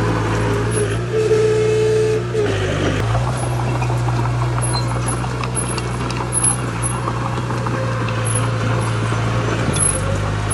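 Heavy diesel construction machinery engine running steadily, with a higher whine for about a second near the start.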